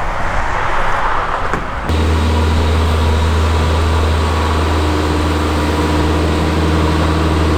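An even rushing noise, then about two seconds in an abrupt change to an engine running at a steady speed.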